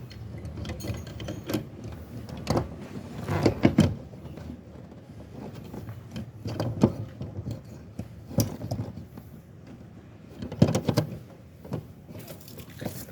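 Scattered clicks, knocks and rattles of hands fitting a car's electric fuel pump assembly into the fuel tank and setting its lock ring, in a few clusters of short hits.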